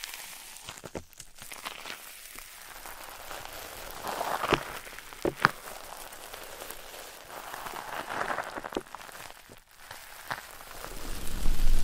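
Close-miked ASMR sounds on a microphone: soft crackling and scratching with scattered sharp clicks, swelling into louder rustles twice, about four and eight seconds in.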